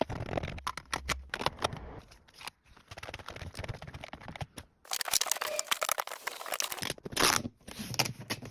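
Small parts and tools being handled: rapid irregular clicks and taps, with a longer stretch of scraping and rattling about five seconds in.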